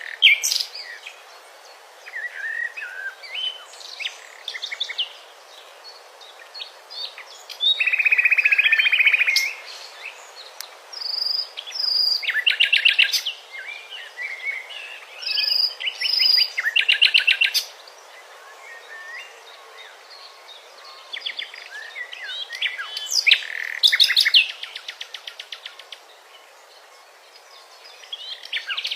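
Songbirds singing: repeated trilled phrases a second or two long, every few seconds, with short chirps and calls between them.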